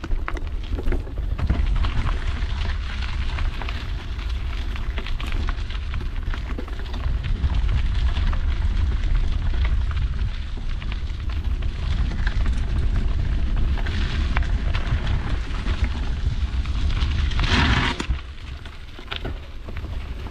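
Mountain bike riding on a dirt trail: wind buffeting the GoPro's microphone with a heavy rumble, over tyre crunch and rattling clicks. The noise swells to its loudest shortly before the end, then eases.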